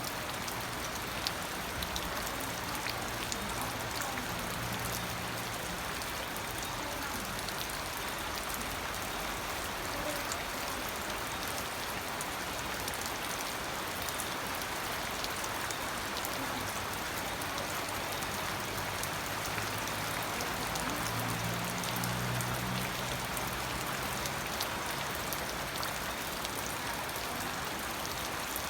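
Steady rain falling, with scattered sharp drop ticks over an even hiss. A faint low hum comes in near the start and again about two-thirds of the way through.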